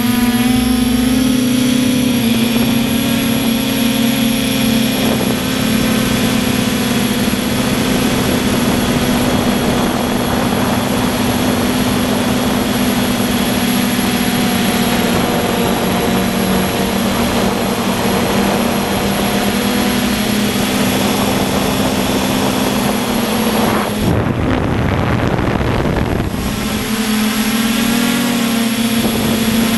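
RC quadcopter's electric motors and propellers droning steadily in flight, seen from the camera on the craft itself. A little past the twenty-four-second mark the higher tones drop away for about two seconds under a rushing noise, then the steady drone returns.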